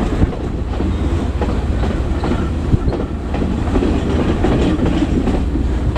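Passenger train running along the line: a steady low rumble with irregular clicks and knocks of the wheels over the rails, heard from on board the train.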